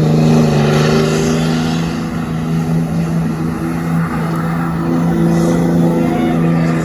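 A truck engine running at a steady speed with a loud, even drone that holds its pitch throughout.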